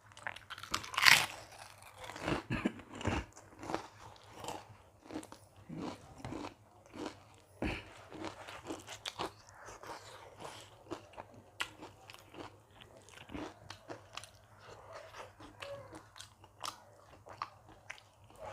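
Close-miked eating: a person chewing and biting food, with many short crunchy clicks and mouth sounds. One louder, sharper sound comes about a second in.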